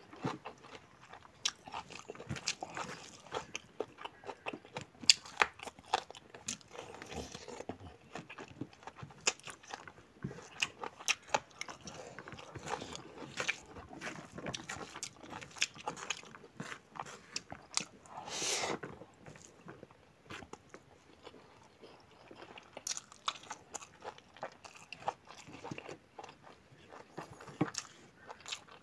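A person chewing and biting mouthfuls of pork curry with rice: a dense run of short, sharp mouth clicks, with one longer, louder noise about two-thirds of the way in.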